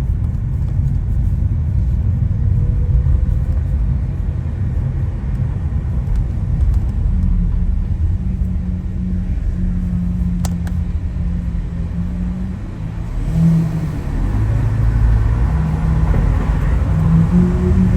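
Lamborghini Aventador SV's V12 with a Capristo exhaust running under way at low revs, with a heavy low rumble. The note eases off briefly about two-thirds of the way through, then builds again near the end.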